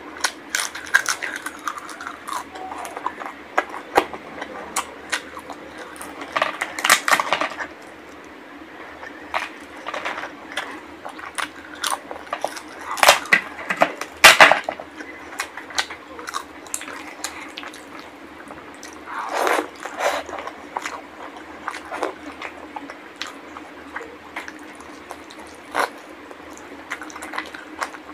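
Close-miked eating with the hand: wet chewing and lip smacking of curry and rice, with irregular clicks and a few louder crackling crunches of crisp papad about halfway through.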